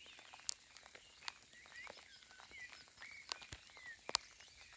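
Quiet lakeside ambience with faint small-bird chirps throughout and a handful of sharp, isolated ticks of raindrops falling close to the microphone.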